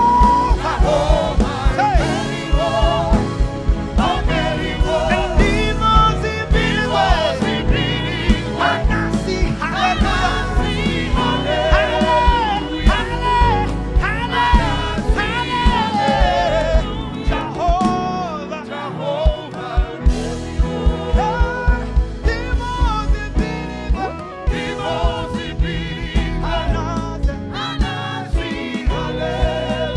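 Gospel worship music: singers and a choir with a live band, a steady drum beat under the voices.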